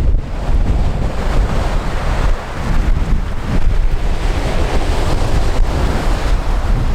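Strong wind buffeting the microphone in gusts, over the steady wash of sea waves on the shore.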